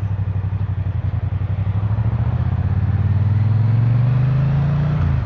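Triumph parallel-twin motorcycle engine under way, a steady pulsing note whose pitch climbs as it accelerates, then drops sharply near the end.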